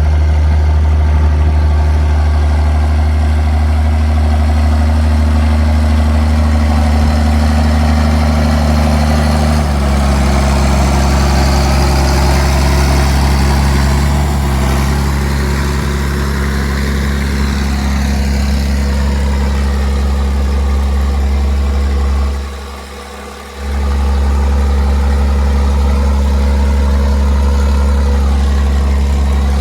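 Straight-piped John Deere 4630 tractor's six-cylinder diesel running steadily with a deep exhaust drone. Its note shifts slightly about ten seconds in, and the sound dips briefly for about a second later on.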